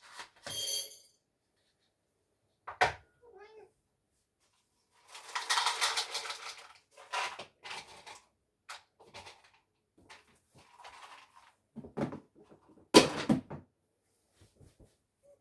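Domestic cat meowing now and then amid handling noises: a rustle lasting about a second and a half midway, several light knocks, and a loud clatter near the end.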